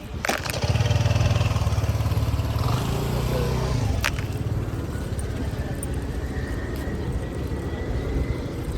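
A motor engine running with a loud, steady low hum that eases off about four seconds in, leaving a quieter rumble. Sharp clicks come just before the hum and as it drops.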